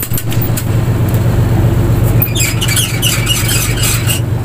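Fishing boat's engine running with a steady low drone. About two seconds in, a quick run of high-pitched squeaks lasts roughly two seconds over the engine.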